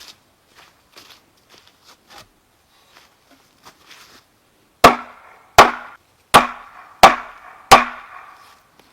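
A tool striking wood: light handling clicks, then five heavy blows in a steady rhythm about two-thirds of a second apart, each with a short ringing tail.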